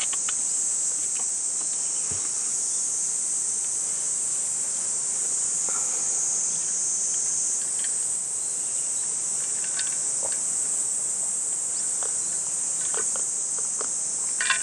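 A steady, high-pitched chorus of summer insects buzzing without a break, with a few faint small clicks and knocks over it.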